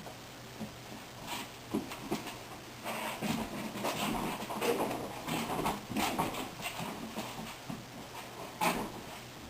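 Household pets making small, irregular sounds: scattered short noises, busier in the middle, with a sharper one near the end.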